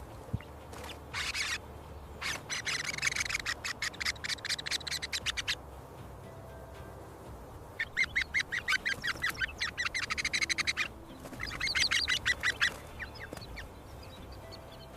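A bird calling in fast chattering runs of about nine notes a second, three long runs with short pauses between them.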